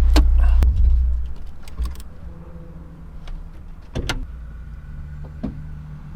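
Honda Civic Type R's 2.0-litre turbocharged four-cylinder running with a heavy low rumble, which dies away about a second in as the engine is switched off. A few sharp clicks and knocks follow, the loudest about four seconds in.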